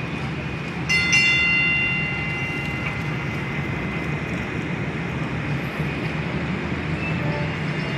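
A train running steadily with a low rumble. About a second in, a high-pitched warning tone sounds for about two seconds and cuts off.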